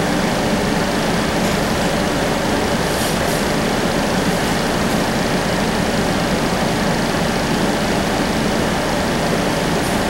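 Steady cabin noise inside a CAF Urbos 3 streetcar: an even low hum and rumble that holds unchanged throughout, with a couple of faint light ticks.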